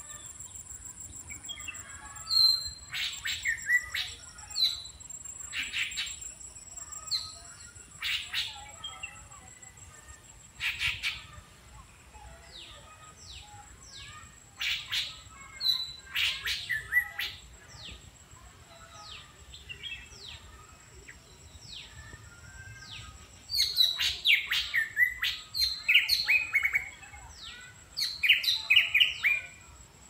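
Several songbirds calling from the trees: repeated short chirps and quick downslurred whistles, with bursts of rapid chattering notes about two-thirds of the way in and again near the end.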